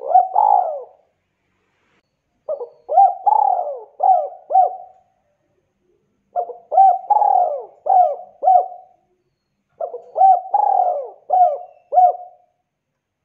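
Spotted dove (tekukur) cooing loudly in four phrases, one about every three and a half seconds. Each phrase is a quick run of several short coos that rise and fall in pitch.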